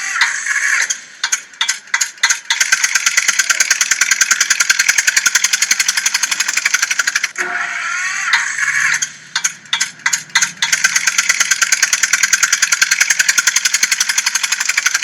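Toy tractor's engine noise: a fast, even mechanical clatter that breaks off twice into a few scattered clicks before running on again.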